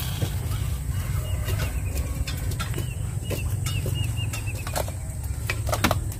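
A small bird chirping in a quick run of short high notes, a couple of seconds long, over a steady low rumble with scattered clicks and knocks.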